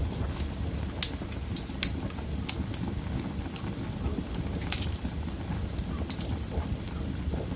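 Wood fire burning in a fireplace: a steady low rumble of flames with irregular sharp crackles and pops, the loudest snap about a second in.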